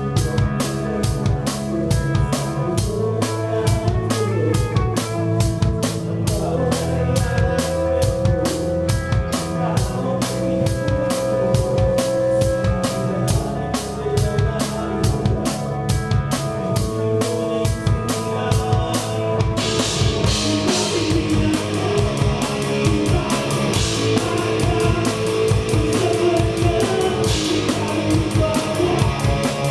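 Live band playing, with the drum kit loud and close: a steady run of fast cymbal strokes over drums and bass, then about two-thirds through a louder crash-cymbal wash comes in and keeps going.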